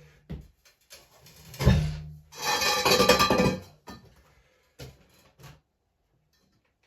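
A heavy South Bend metal lathe being nudged into position. A sharp knock with a short low ring comes first, then a scraping slide for about a second and a half as it is pushed across the floor, then two light knocks.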